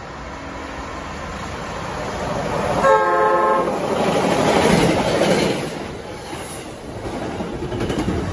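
MBTA commuter rail train approaching and passing, led by a cab car. One short horn blast comes about three seconds in, then the loud noise of the coaches going by, loudest just after the horn.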